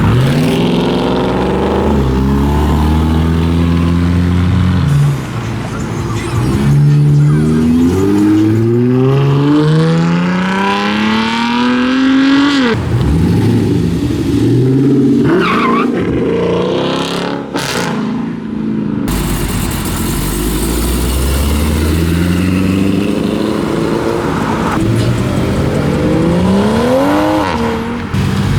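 Car engines revving and accelerating hard as several cars pull away one after another. The engine note climbs in pitch and drops back at each gear shift.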